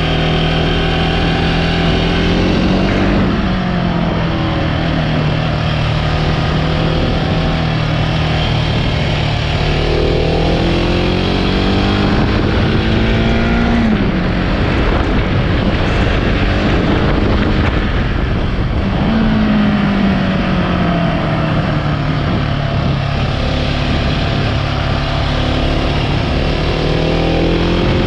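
Husqvarna 701 Supermoto's single-cylinder engine running while riding, its pitch climbing and falling with throttle and speed: a climb about a third of the way in ends in a sharp drop at the halfway point, and the pitch falls away again a little later.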